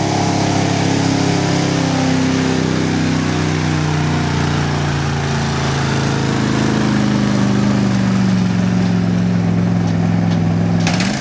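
Stock pickup truck's engine running hard under full load as it drags a weight sled in a truck pull, a steady drone whose pitch sags slowly as it bogs down. Just before the end it rises sharply and cuts off.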